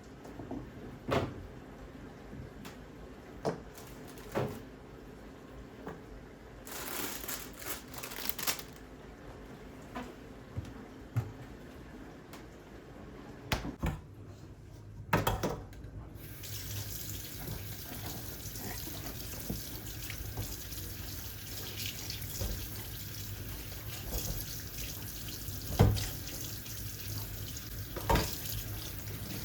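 Several sharp knocks and clatters of things being handled, then, about halfway through, a kitchen tap turned on and left running steadily into the sink.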